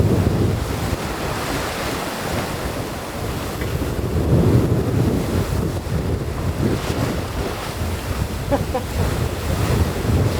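Wind buffeting the microphone over the rush of breaking sea waves, swelling and easing in gusts.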